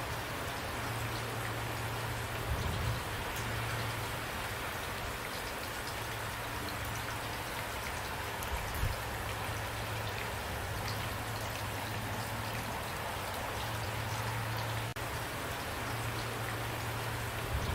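Steady rain falling, an even hiss of drops, with a low drone fading in and out underneath.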